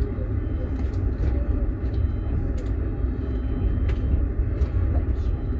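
Moving passenger train heard from inside the carriage: a steady low rumble from the wheels and running gear, with a few faint clicks.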